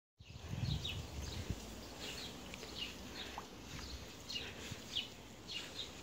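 Birds chirping over and over in short, high, falling chirps, several a second, with a low rumble under them that is loudest in the first second or so.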